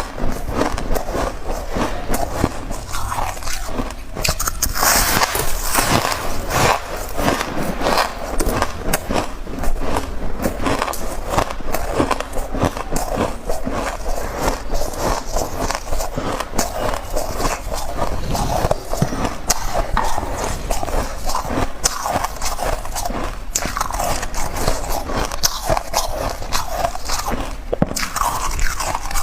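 Soft, chunky freezer-frost ice being bitten and crunched, a dense run of crunches one after another.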